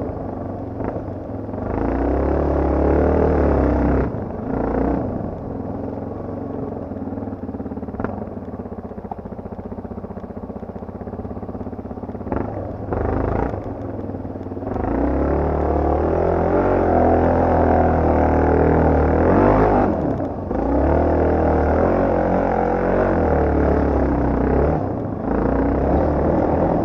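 Yamaha TT250R's single-cylinder four-stroke engine under riding load, the throttle opened hard and rolled off again in turn. There is a burst of revs about two seconds in, a quieter stretch of coasting, and then long pulls in the second half.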